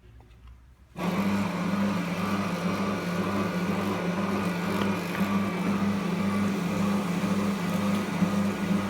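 Cleanroom vacuum cleaner switched on about a second in, then running steadily: a motor hum with a rush of air and a slow, regular pulsing in its low hum.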